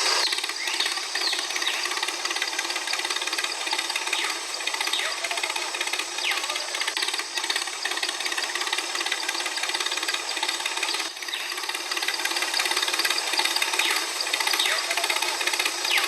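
A small power tool running steadily without a break, with a brief dip about two-thirds of the way through.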